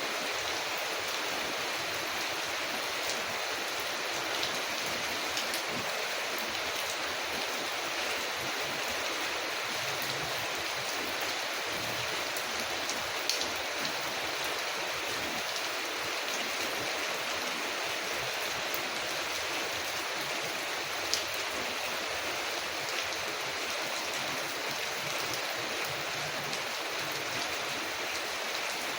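Steady rain falling on a window, an even hiss, with scattered faint ticks and two sharper clicks about halfway through and about three quarters through.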